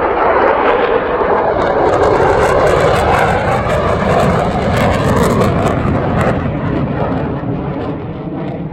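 Military jets passing low overhead, a loud, dense jet-engine roar that fades over the last few seconds.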